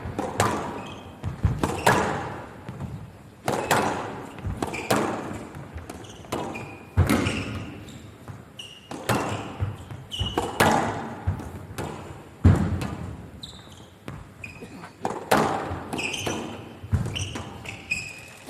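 A squash rally: the ball cracks off rackets and walls about once a second and echoes around the court, with short high squeaks of shoes on the court floor between the shots.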